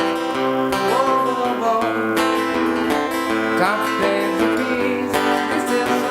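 Acoustic guitar music: chords strummed steadily, with a melody line of held and sliding notes over them and no singing.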